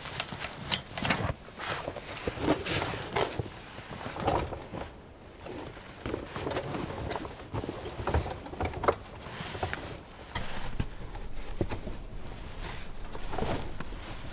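Irregular knocks, clicks and rustling, as of things being handled and set down, with no steady sound underneath.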